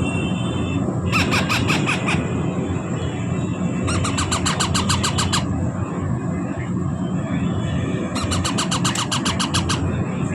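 Baby parrot chicks giving begging calls: three bouts of rapid, repeated squeals, each lasting a second or so, over a steady low rumble.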